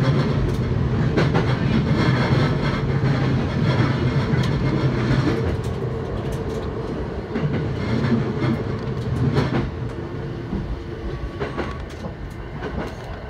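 Running sound heard from inside the carriage of a JR East E129 series electric train. The car rumbles steadily on the rails, with scattered clicks of the wheels over rail joints, and the sound gets gradually quieter toward the end.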